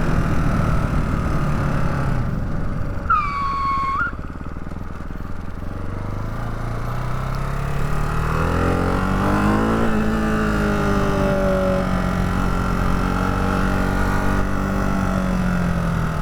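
Ducati Hypermotard 698 Mono's single-cylinder engine running on the road. The revs climb gradually from about six seconds in, hold, then ease off near the end as the bike slows. A single high-pitched beep of about a second sounds about three seconds in.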